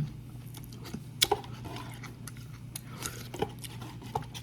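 Eating utensils clinking and scraping against a noodle container while noodles are eaten: a quick pair of clicks about a second in, then single clicks later, over a steady low hum.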